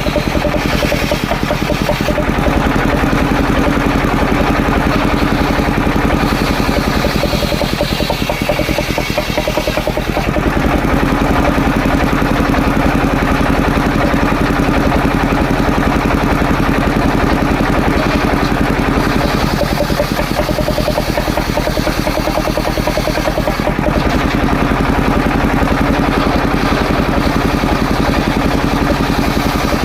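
Engine-driven homemade circular saw running continuously, the engine's fast pulsing throughout; in three long stretches a stronger drone comes in as the blade rips waru wood into battens.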